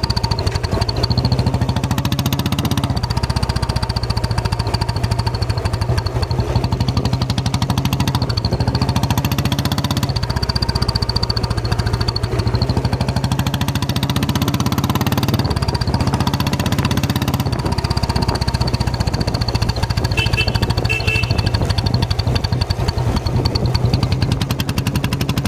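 Royal Enfield Bullet's single-cylinder engine running with a rapid, even thump of exhaust pulses. A turbo whistle fitted in the silencer adds a thin, steady high whistle on top, imitating a turbocharger.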